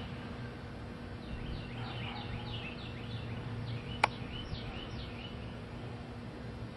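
Birds calling in a series of short, downward-sliding chirps over a steady low rumble, with a single sharp click about four seconds in.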